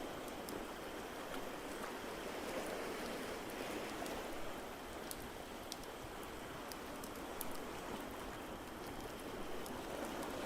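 Layered ambience: a steady rushing wash of water noise, with sparse sharp crackles of a wood fire scattered through it.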